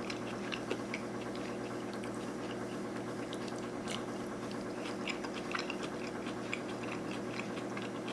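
Close-up chewing of pickled sushi ginger: many small crisp clicks and crunches from the mouth, over a steady background hum.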